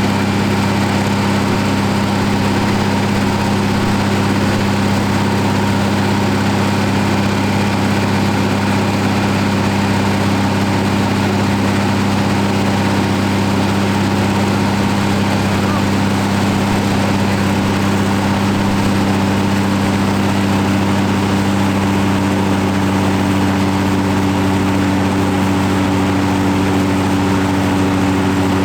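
Deutz-Fahr Agrotron M620 tractor's diesel engine running at a steady, constant speed while driving a PTO dynamometer for a power test. A further steady tone joins in about two-thirds of the way through.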